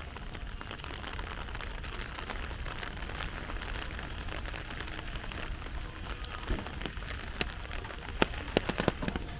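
Heavy rain falling steadily, with the sharp ticks of single drops striking close by; several louder drop hits land in the last two seconds.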